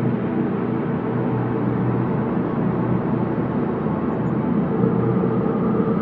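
Ambient space drone: a steady, deep layered hum with a soft hiss above it, without any beats or sudden changes.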